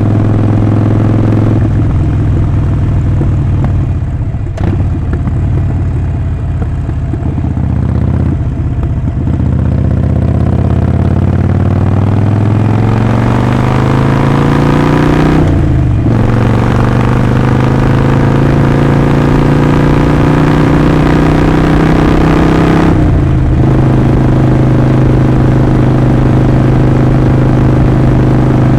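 Harley-Davidson Sportster 48's air-cooled 1200 cc V-twin engine and exhaust on the move. The engine note climbs steadily, dips at a gear change about halfway through, climbs again and dips at a second shift, then holds steady at cruising speed.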